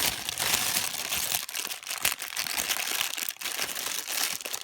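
Plastic packaging crinkling and rustling as a package bag is opened by hand, with many sharp little crackles.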